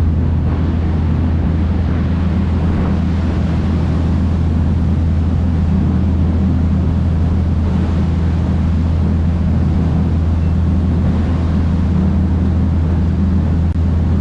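River tour boat's engine running steadily, a loud low drone heard from on board.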